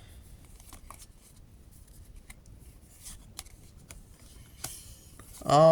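Trading cards being handled and flipped through: faint scattered clicks and soft rubs of card on card.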